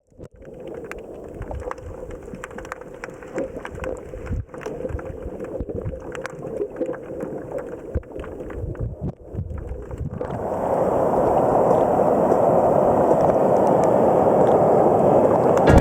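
Wind rumbling on the camera microphone, with many crackles and knocks. About ten seconds in this gives way to a louder, steady rush of noise.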